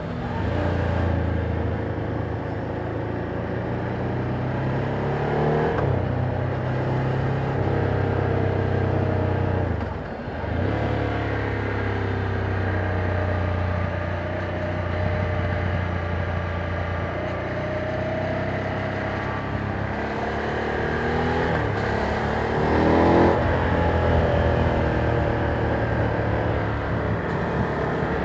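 Ducati Monster 797's air-cooled L-twin engine running through its stock exhaust while the bike is ridden, its pitch rising and falling with the throttle. The engine briefly drops off about ten seconds in, and it revs up sharply a little past twenty seconds, the loudest moment.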